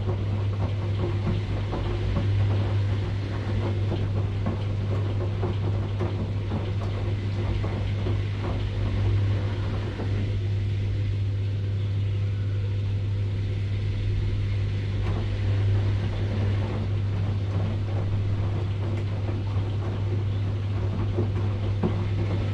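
Washing machine running: a steady low hum with many small irregular clicks and knocks over it.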